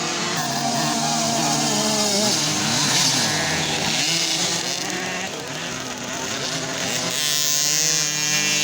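Several motocross bike engines revving up and down together as they race, their pitches rising, falling and crossing over one another.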